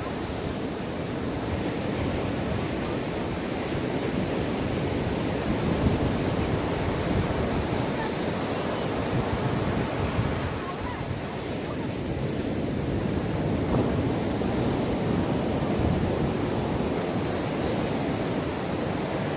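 Ocean waves washing onto a beach, a steady surf wash that swells and eases, with wind buffeting the microphone.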